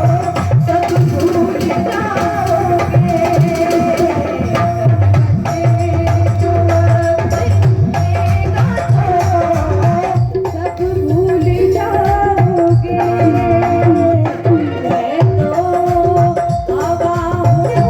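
Instrumental interlude of an Indian song: tabla playing a steady rhythm under a melodic instrument holding and gliding between notes.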